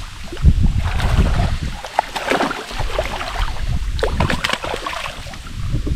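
Water splashing and dripping around a fishing kayak, with small knocks and handling noise and gusts of wind rumbling on the microphone.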